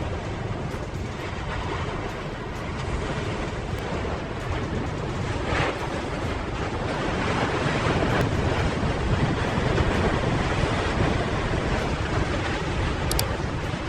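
Strong wind blowing hard across the microphone, a steady rushing noise.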